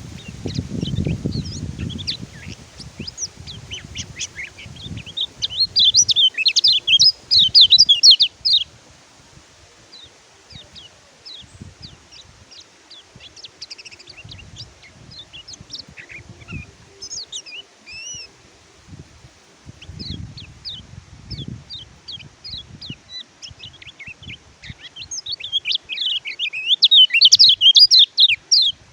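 Kecial kuning white-eye singing: scattered high, quick chirps, broken twice by loud bursts of rapid twittering song, about six seconds in and again near the end. Soft low thumps and rustles sound underneath, strongest at the start.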